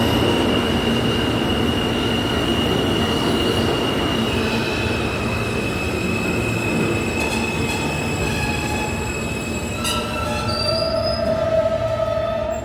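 New York City subway train with a steady high-pitched squeal from its steel wheels over the rumble of the cars, the pitch dropping slightly about four seconds in. About ten seconds in there is a sharp clank, followed by several squeal tones sounding together.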